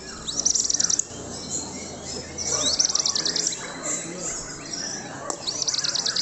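White-rumped shama (murai batu) singing in full voice: three bursts of fast, high repeated notes, with softer warbling notes between them.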